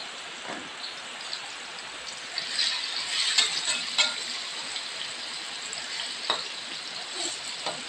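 Tofu cubes sizzling as they fry in hot oil in a wok, a steady hiss. A metal spatula scrapes and clinks against the wok in a run of strokes about two and a half to four seconds in, and once more near six seconds.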